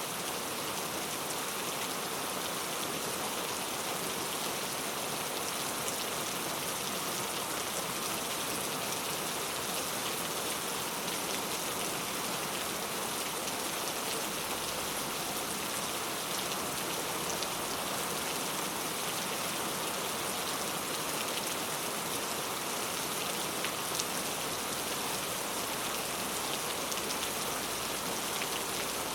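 Heavy rain falling steadily on mango tree leaves: a dense, even hiss of drops pattering on the foliage.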